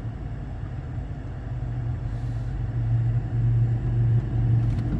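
A BMW's engine idling, heard inside the cabin. It makes a steady low hum that grows a little louder over the second half.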